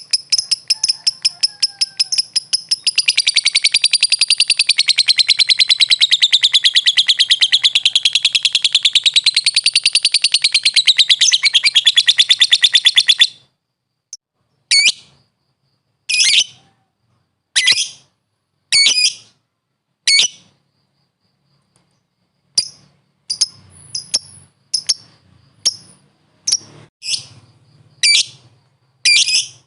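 Lovebird singing a long, rapid, high-pitched chattering trill that stops about 13 seconds in, followed by short separate sharp calls about once every second or so.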